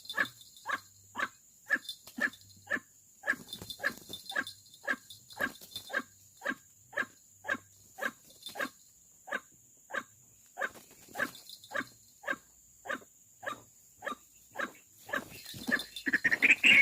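White-breasted waterhen calling: a steady series of short, harsh notes, about two a second. Near the end, louder and more varied calling breaks in.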